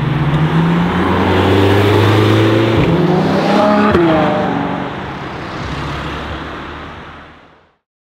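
McLaren GT's twin-turbo V8 accelerating hard, its note rising in pitch, with short breaks about three and four seconds in, then fading out as the car draws away; the sound cuts off just before the end.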